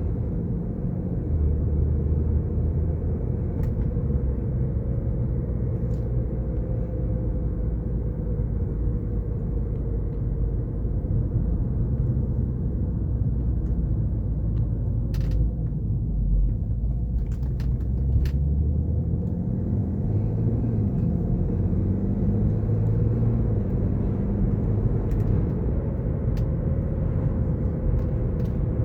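BMW F10 530d xDrive drivetrain running at speed: a steady low rumble with a thin whine that drifts slightly in pitch. The owner suspects a failing front differential.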